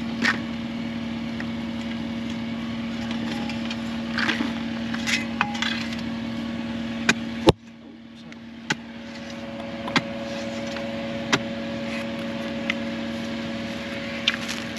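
A machine engine idling steadily, with scattered sharp clicks and knocks on top. About halfway through, the sound drops abruptly and then builds back up.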